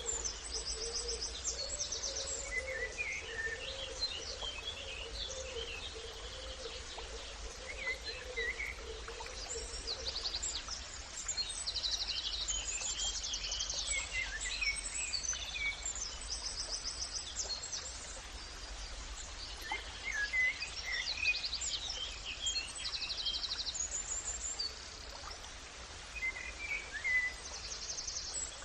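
Several birds singing outdoors: short, rapid high trills repeating every few seconds, mixed with scattered chirps, over a steady low background rumble. A faint wavering low tone runs through the first ten seconds or so.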